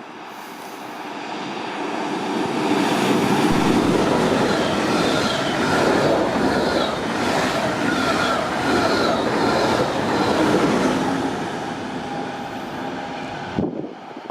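A train running along the station tracks past the platform, with wheel and rail noise and a faint wheel squeal. It builds up over the first few seconds, stays loud, then fades and cuts off abruptly near the end.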